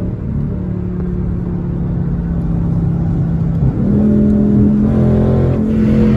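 Dodge Charger Scat Pack's 392 HEMI V8 running at a steady cruise note, then stepping up in pitch and getting louder about four seconds in.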